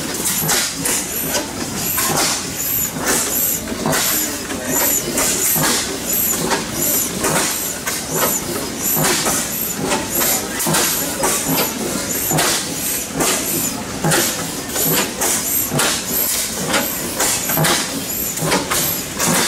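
Antique engine running with a steady rhythm of sharp exhaust beats, about two to three a second, each with a hiss.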